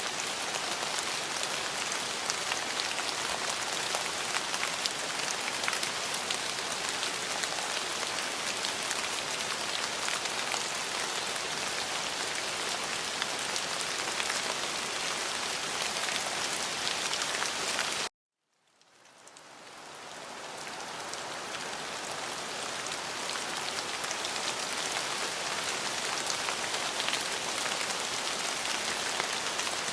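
Steady rain falling on a surface, a dense even hiss with many small drop hits. About 18 seconds in it cuts out abruptly to silence for a moment, then fades back in over a couple of seconds, a splice in the looped recording.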